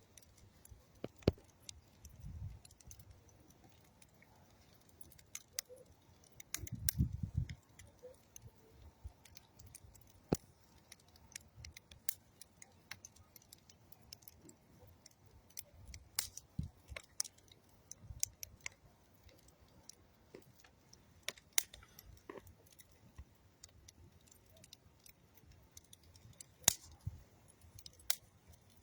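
Campfire of old railroad wood and dead tree wood crackling, with sharp irregular pops every second or so. Twice, about two seconds in and about seven seconds in, a brief low rumble sounds under the crackle.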